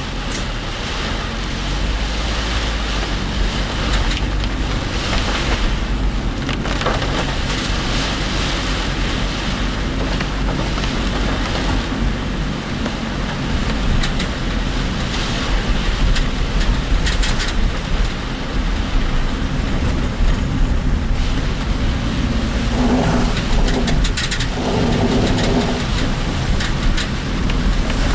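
Car driving in heavy typhoon rain and wind, heard from inside: steady road and engine noise with rain on the car and tyres on a wet road, swelling now and then. A short pitched sound comes twice near the end.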